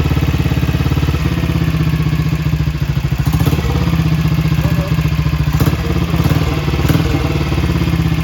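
1956 BSA Gold Star DB34's 500 cc single-cylinder engine running, a steady, rapid beat of even firing strokes.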